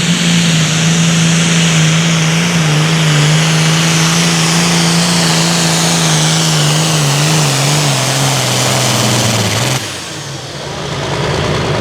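Super Farm pulling tractor's turbocharged diesel engine running hard under load on a pull, its pitch sagging slowly as it bogs down, then cut off suddenly about ten seconds in as the run ends.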